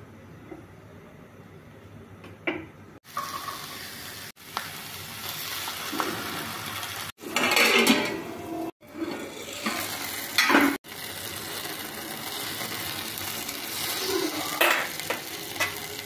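Whole tomatoes and garlic cloves frying in oil in a stainless steel pan: a steady sizzle with a few louder bursts and some clatter of pans, broken off by several abrupt cuts.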